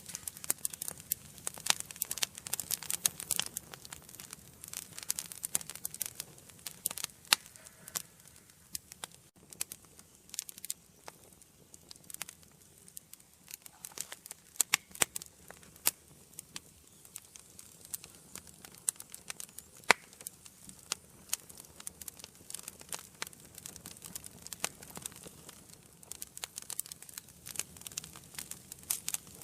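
Wood fire burning in a fireplace, with many sharp irregular crackles and pops over a faint low rush of the flames; the crackling is densest near the start and again near the end.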